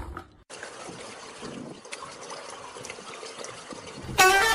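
Water trickling steadily. Near the end, a loud high-pitched vocal cry breaks in.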